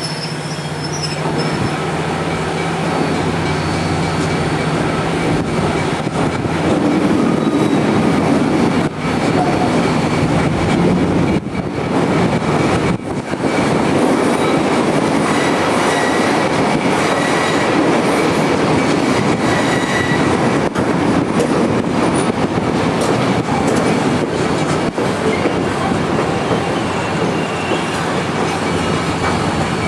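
Passenger train rolling along the track: a steady rumble and clatter of wheels on rails with faint wheel squeal, growing louder over the first several seconds and then holding.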